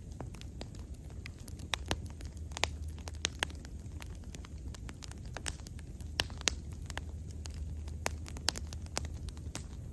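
Wood bonfire burning, with frequent irregular sharp crackles and pops over a low steady rumble of the flames.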